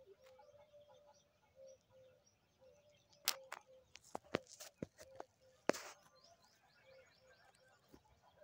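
Faint outdoor bird calls: a short low note repeated a couple of times a second, with thin high chirps in runs. In the middle come several sharp knocks and rustles, the loudest sounds, as the phone is moved.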